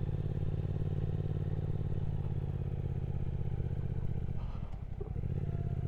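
Triumph Speed Twin 1200's parallel-twin engine pulling steadily on a climb, with a brief dip in the engine note about four and a half seconds in before it picks up again.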